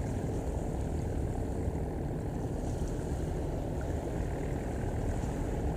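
Steady low rumble of ship and barge engines on the river, with faint steady hum tones in it.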